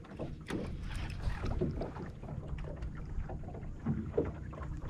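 Water and wind noise on a fishing kayak: a steady low rumble of wind on the microphone, with scattered small clicks and knocks.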